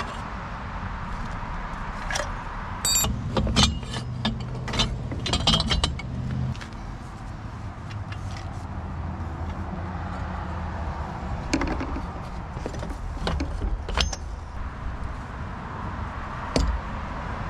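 Hand tools working on a three-wheeler's exhaust: scattered metallic clinks, clicks and short rings of wrenches on metal, busiest in the first few seconds. A steady low hum runs underneath.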